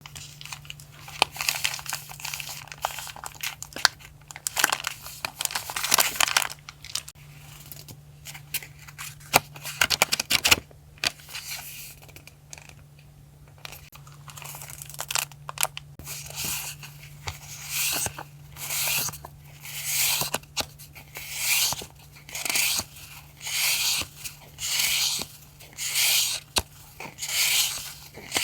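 Paper being handled and torn up close: irregular crinkling and tapping, then from about halfway a regular run of tearing or rubbing strokes, about one a second. A steady low hum sits under it all.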